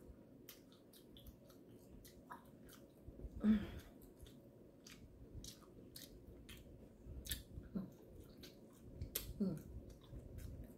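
A person chewing and eating peeled boiled shrimp, with wet lip smacks and mouth clicks every fraction of a second. A few brief hums come from the eater about three, eight and nine seconds in.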